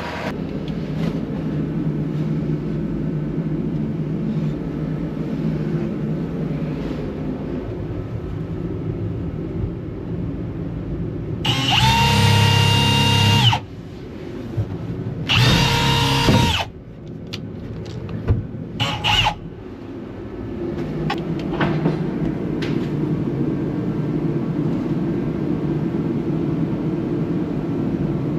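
A power drill runs in two bursts about halfway through, the first about two seconds long and the second about one, each with a steady whine, then a brief third burst. Underneath, a steady low engine-like hum carries on throughout.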